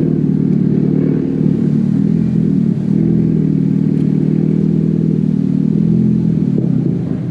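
Car engine running at low revs, a steady low drone that rises and falls slightly, as the car creeps along.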